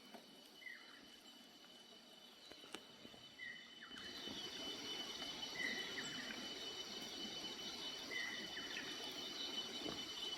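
Faint hillside ambience: a steady high insect drone, with a short bird call repeating about every two and a half seconds. About four seconds in, a soft rushing noise comes in and stays, fitting water running out of the slipped hillside.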